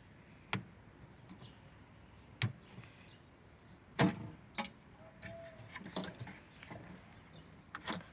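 Scattered sharp clicks and knocks, about six of them spread irregularly, of parts and tools being handled while a refrigerator's thermostat housing is taken apart.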